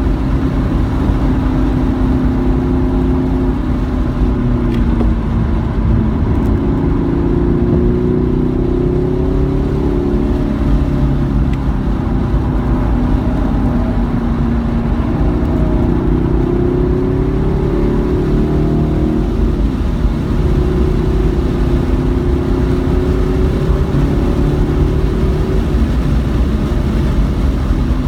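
Car engine driven hard, its note climbing under acceleration and dropping away at shifts and braking, several times over, above a constant low road and wind rumble.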